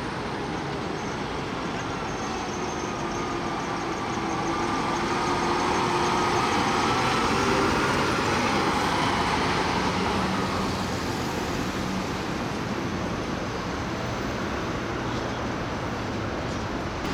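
City street traffic noise as a vehicle passes, growing to its loudest about seven seconds in and then fading.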